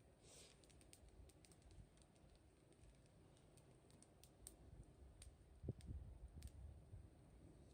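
Wood fire crackling faintly, with sparse irregular sharp pops and a duller knock about two thirds of the way through.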